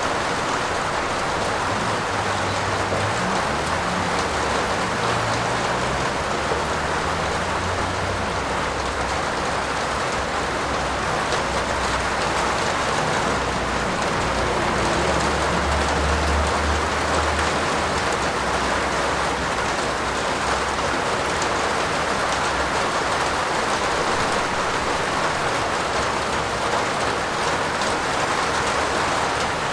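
Steady heavy rain, a dense even patter, with a low rumble underneath at times that is strongest about halfway through.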